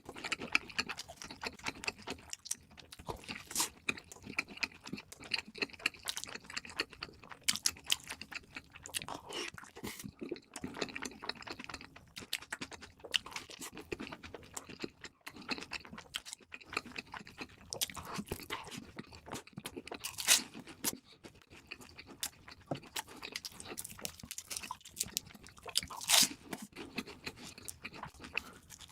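Close-miked eating of crispy fast food: continuous chewing with dense, irregular crunches and wet mouth sounds. Louder single bites come about 20 and 26 seconds in.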